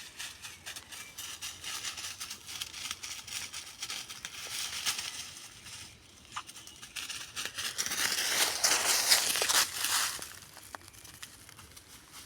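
Rustling and crackling made up of many small clicks, in two louder stretches, the louder one from about eight to ten seconds in, then fading.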